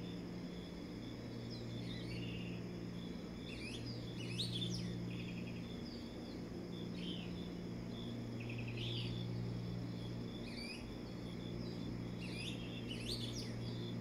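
Birds singing in the dawn chorus: scattered chirps and short trills that come and go, over a steady low hum and a faint steady high-pitched drone.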